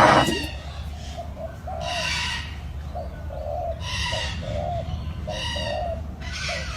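Birds calling: a run of short, low cooing notes repeating throughout, with a louder, harsher call three or four times.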